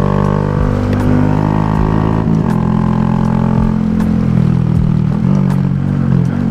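Honda Grom minibike engine running under way at a steady pitch; the note dips and picks up a couple of times as the throttle changes.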